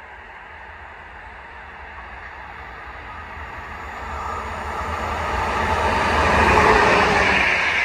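A train approaching and passing, its rumble growing steadily louder, peaking near the end and then starting to fade.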